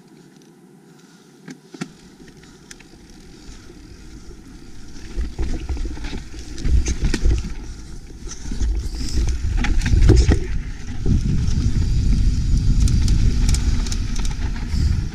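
Wind buffeting the microphone and a loud low rumble with rattling, as the rider or vehicle moves fast over rough rock. It builds from a quiet start with a few sharp clicks, then stays loud through most of the stretch.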